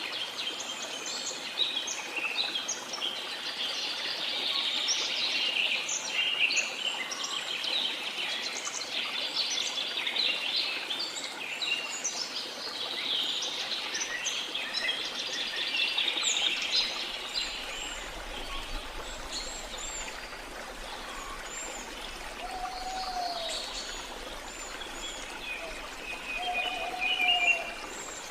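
Many birds chirping and whistling in a dense chorus over a steady rush of water, with a couple of lower, short whistled calls near the end.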